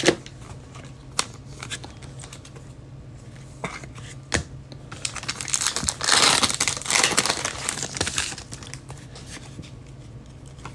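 Foil trading-card pack wrappers crinkling and being torn open, with a few sharp clicks of handled cards and a louder crackling stretch about six to eight seconds in.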